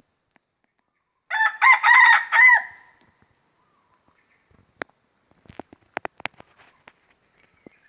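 A red junglefowl rooster gives one short crow of a few rising-and-falling notes, a territorial call. It is followed a few seconds later by several sharp clicks.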